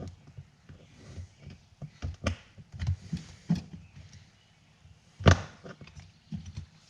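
Irregular knocks, taps and scrapes of a screwdriver and a plastic bone stick working rubber weather stripping into a metal vent-window frame. A sharp knock about five seconds in is the loudest.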